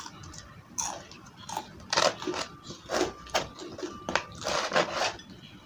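Close-miked crunching of crisp deep-fried batter as it is bitten and chewed: a run of sharp, irregular crunches starting about a second in.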